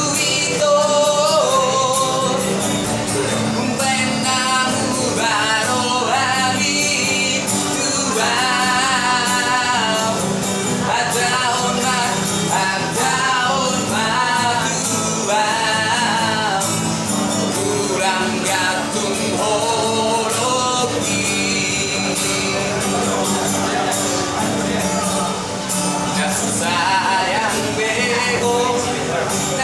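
A male street busker singing a Batak-language ballad with wavering, vibrato-laden held notes over steady instrumental accompaniment.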